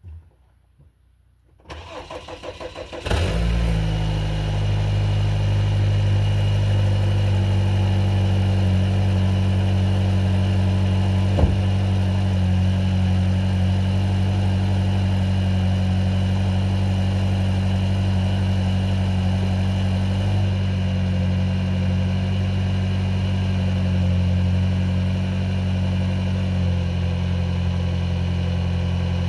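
2014 Hyundai Sonata's 2.4 L four-cylinder engine cold-starting, heard at the exhaust tailpipe: the starter cranks briefly, the engine catches about three seconds in, and it settles into a steady fast cold idle that eases down a little twice later on.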